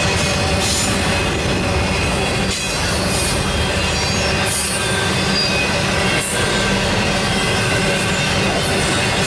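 Intermodal freight cars loaded with truck trailers rolling past close by: a steady heavy rumble of steel wheels on rail, with thin high wheel squeal tones over it and short sharp accents about every two seconds.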